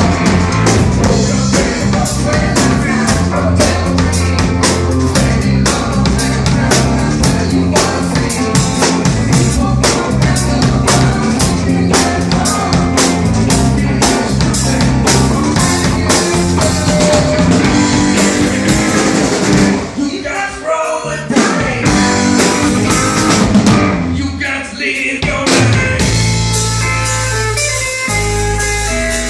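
Live rock band playing: drum kit with steady hits over electric guitar and bass. About two-thirds of the way in the music briefly drops out twice, then long sustained guitar and bass chords ring with lighter drumming.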